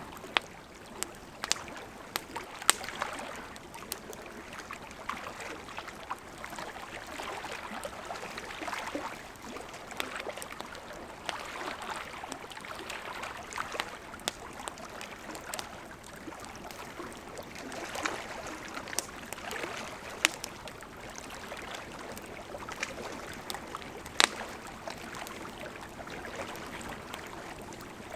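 Campfire crackling with irregular sharp pops, a few much louder than the rest, over the steady rush of a gently flowing river.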